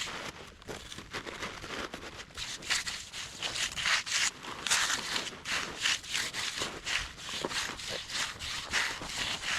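Hand finishing tool scraping and rubbing across a fresh concrete slab, in a run of short, uneven strokes.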